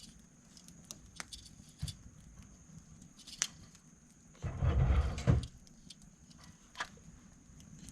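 Scattered small clicks and snaps of twigs and kindling being handled and dropped into a campfire, with a louder rustling knock lasting about a second near the middle.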